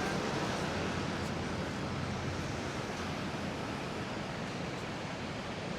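Ocean surf: a steady, even wash of waves breaking on the beach.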